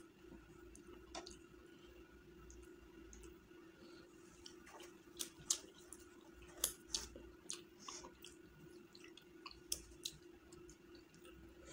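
A person chewing mouthfuls of chicken biryani eaten by hand: soft, wet mouth clicks and smacks, thickest from about four to ten seconds in, over a faint steady hum.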